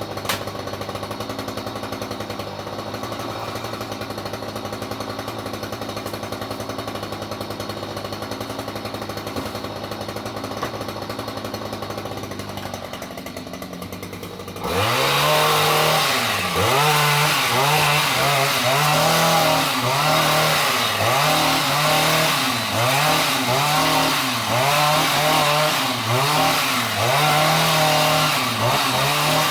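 Chainsaw engine idling steadily, then about halfway through it gets much louder and is revved up and down over and over, about once a second.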